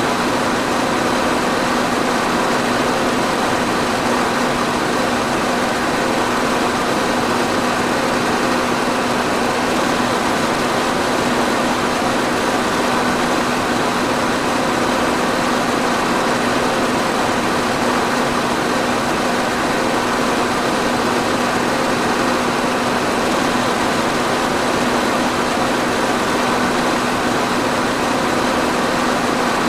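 Electric fan running steadily: an even whoosh of moving air with a low, constant motor hum.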